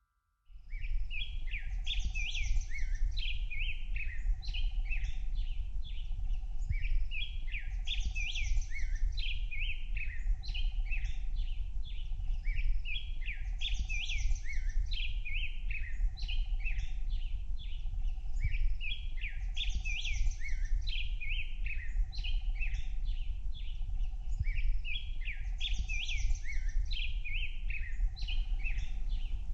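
Birds chirping and twittering in quick runs of calls, the same pattern coming round about every six seconds, over a low steady rumble.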